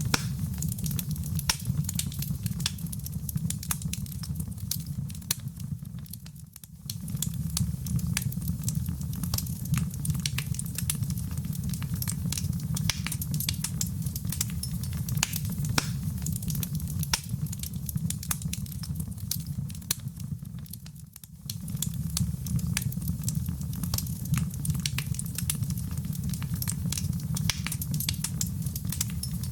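Fireplace fire crackling steadily over a low rumble, with dense irregular pops and snaps. The sound dips briefly twice, then comes back.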